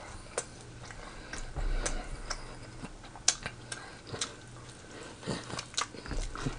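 Close-miked eating sounds of a man chewing a gravy-covered pork chop and biscuit: irregular wet clicks and smacks of the mouth.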